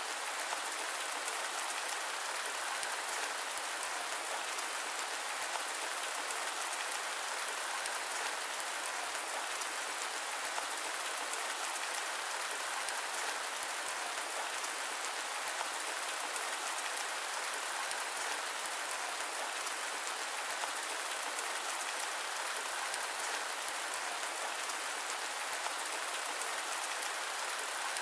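Steady rain falling on a surface, an even hiss of many small drops that holds level, with the deep lows cut away.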